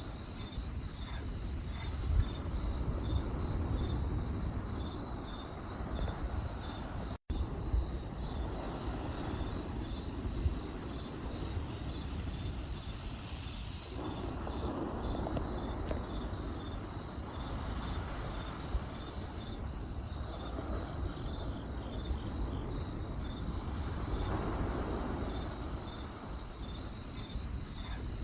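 Crickets chirping in a steady, rapidly pulsing trill, over a low rumble with a few scattered pops from a crackling campfire. The sound cuts out for an instant about seven seconds in.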